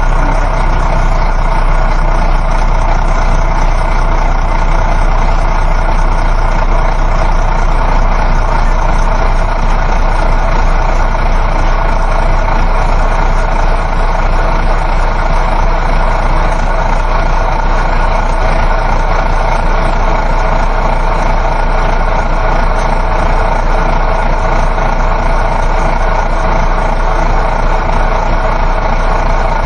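Inside a moving coach bus: a steady engine hum blended with road noise.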